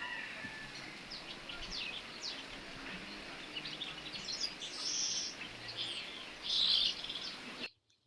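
Small birds chirping and calling in short, high notes and quick falling sweeps over a steady hiss of wind through garden trees, loudest about two-thirds of the way in. The sound cuts out abruptly near the end.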